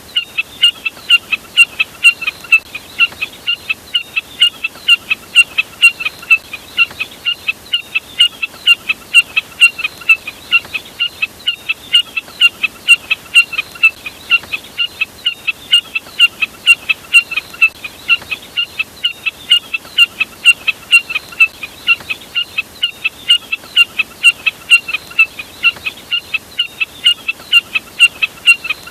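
Bird call recording, labelled as the jack snipe, played as a lure: short, sharp, high notes repeated rapidly and evenly, about three a second.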